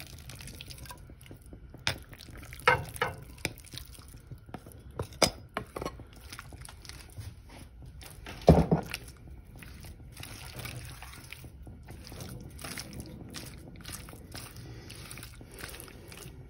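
Marinated chicken frying in hot oil in a nonstick pan, a steady light sizzle, with knocks and scrapes of a silicone spoon stirring it against the pan. The loudest knock comes about eight and a half seconds in.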